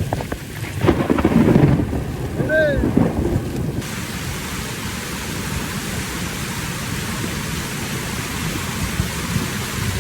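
Rain and hail falling in a steady hiss from about four seconds in. Before that there is a louder, uneven low noise with one short rising-and-falling tone in the middle of it.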